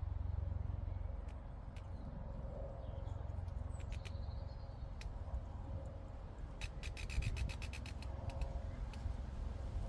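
Low wind rumble on the microphone with scattered crisp clicks, and a quick run of crunching clicks about seven seconds in, from a grazing llama tearing and chewing grass. A faint bird call comes near the middle.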